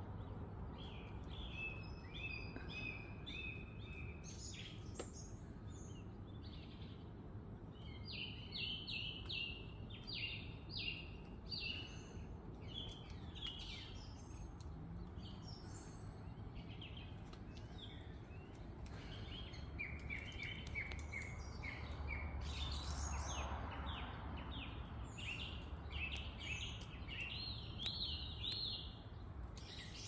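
Several small birds chirping and singing in the trees in quick series of short repeated notes, over a faint steady outdoor hum. A low rumble swells and fades about two-thirds of the way through.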